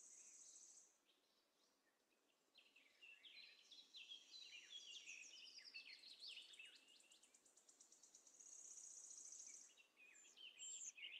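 Faint birdsong: a run of quick, varied chirps through the middle, with a high, fast trill at the start and again near the end.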